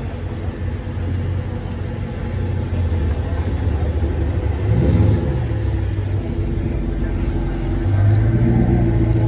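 A car engine running at idle, with a quick rev that rises and falls about halfway through, then a steadier, higher engine note near the end.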